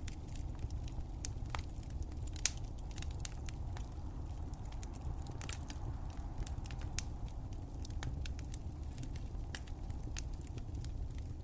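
Wood fire crackling: frequent irregular sharp pops and snaps over a steady low rumble of flames, with one louder pop about two and a half seconds in.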